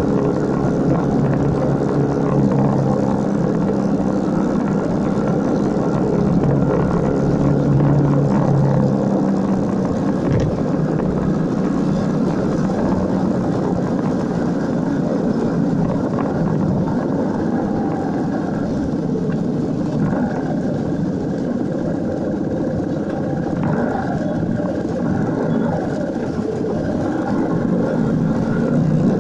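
Motorcycle engine running on the move under a continuous rushing noise. The engine's steady hum is plainest in the first several seconds, then sinks into the rush.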